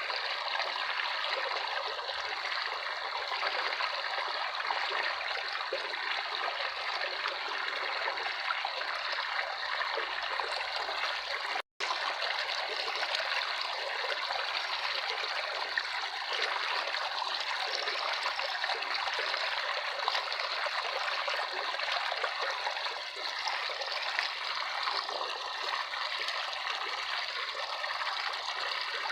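Running water trickling steadily, with a momentary cut to silence about twelve seconds in.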